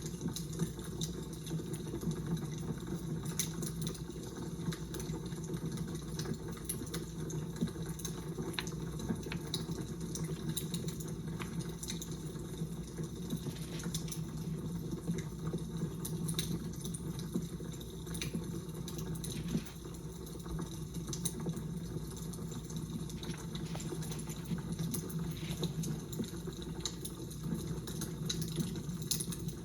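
Crackling fire: a steady low rushing bed with frequent irregular pops and snaps.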